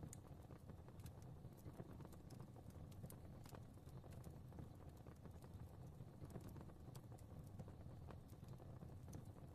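Fire crackling quietly: scattered sharp pops and crackles at irregular intervals over a soft, steady low rumble of flames.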